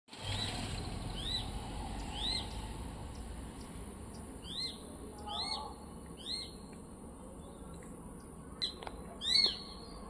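A bird calling: short whistled notes that each rise and fall, in two runs of three about a second apart, then a louder double note near the end, over a low steady rumble.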